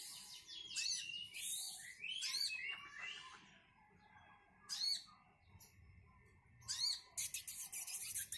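Brown-throated sunbird (kolibri kelapa) calling: a series of sharp, high chirps that sweep quickly down in pitch, with a dense, buzzy run of notes near the end.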